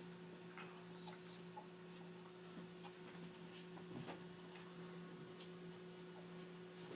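Near silence: a steady low electrical hum in a quiet room, with a few faint scattered ticks.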